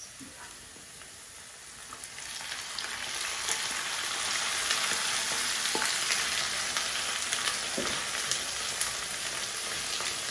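Thawed chopped spinach sizzling in hot oil over browned onions and garlic in a nonstick frying pan, stirred with a wooden spatula. The sizzle gets louder about two seconds in and then runs steady, with faint ticks of the spatula against the pan.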